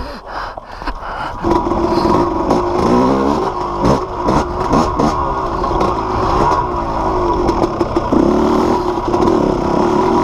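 Yamaha YZ250 two-stroke dirt bike engine running. It gets loud about a second and a half in, then revs up and down with the throttle, and settles to a steadier pitch near the end.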